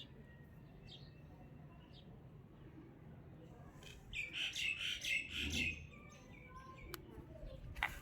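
Birds chirping and squawking: a few scattered calls, then a burst of rapid, loud chirps about halfway through, with a single sharp click near the end.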